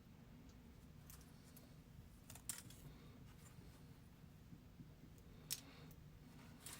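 Near silence: quiet room tone with a few faint, short clicks, the clearest about two and a half and five and a half seconds in.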